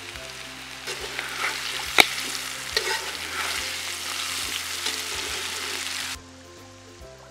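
Spiny gourds sizzling and frying in a steel wok while a perforated steel skimmer stirs them, scraping and clinking against the pan, with one sharp clink about 2 s in. The frying sound cuts off suddenly a little past 6 s, leaving faint background music.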